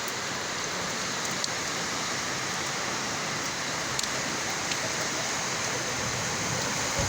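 Heavy rain falling steadily, a continuous hiss with a few sharp drop ticks scattered through it.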